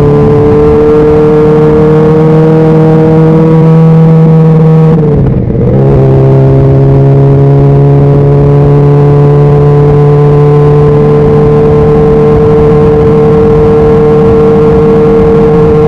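Honda CBR600RR's inline-four engine running under way at steady revs, climbing slowly. About five seconds in the revs dip briefly and come back, then hold steady again.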